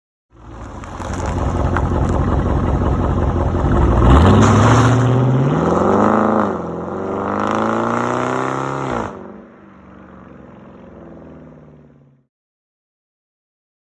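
Dodge Challenger R/T's 5.7-litre HEMI V8 exhaust accelerating hard: the note climbs in pitch, drops at a gear change about six and a half seconds in, climbs again and cuts off suddenly about nine seconds in. A quieter steady engine note follows and fades out.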